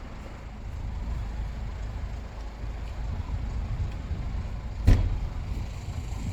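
A steady, fluctuating low rumble, with one sharp thump about five seconds in.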